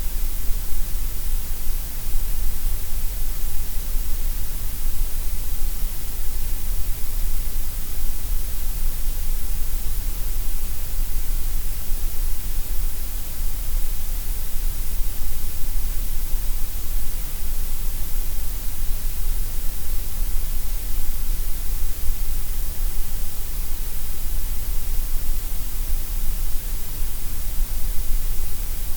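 Gray noise: a steady, unchanging synthetic hiss, heaviest in the deep bass and the high treble, with less in the middle.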